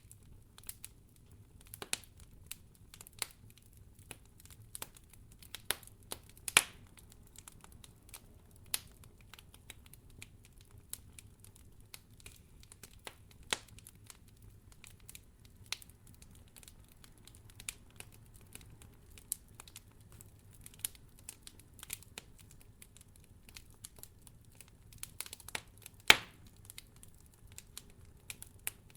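Wood fire crackling in a fireplace: irregular sharp snaps and pops over a faint low rumble, with a louder pop about six seconds in and another near the end.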